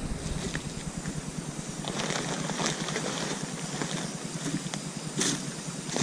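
A motor running steadily with a low hum, with a few short rustles and knocks over it, the most distinct about five seconds in.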